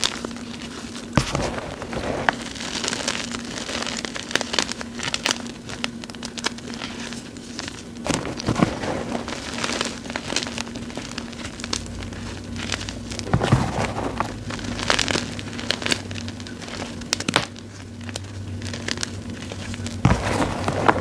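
Gym chalk blocks topped with cornstarch being crushed and crumbled by hand: a dry, crackly crunching with irregular sharp crunches as the chunks break.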